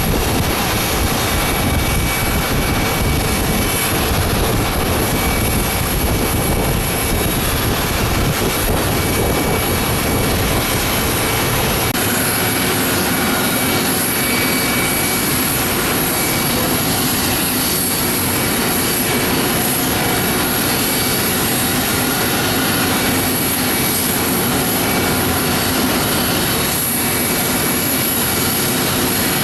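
Jet airliner engines running under a steady hiss of rain. A deep rumble sounds through the first part, then drops away abruptly about halfway through. After that the steady engine sound of a Boeing 777-200ER starting its take-off run carries on.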